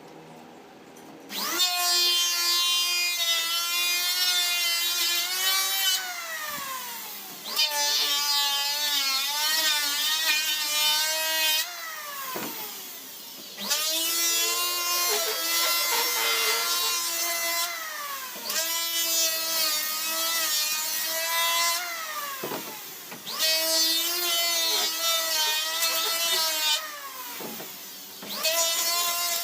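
Electric power tool cutting wood, a high whine with a pitch that wobbles under load. It runs in stretches of about five seconds, each winding down with a falling pitch before the tool starts again, about five times.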